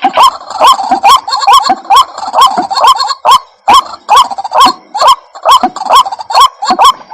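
White-breasted waterhen calling: a loud, rapid, unbroken series of harsh, rising 'kru-ak' notes, about two a second, played as a lure call.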